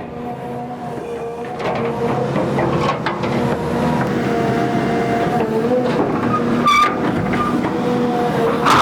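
XCMG XE310GA excavator running under load: diesel engine and hydraulics with a steady whine that grows louder about a second and a half in. A sharp metallic clank rings out about 7 seconds in.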